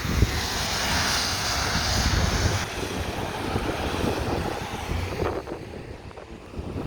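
Wind rumbling on the microphone, with a rushing hiss for the first two or three seconds that then drops away, leaving a quieter low rumble.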